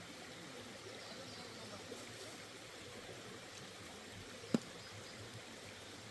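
Valley stream flowing steadily. A single sharp click sounds about four and a half seconds in.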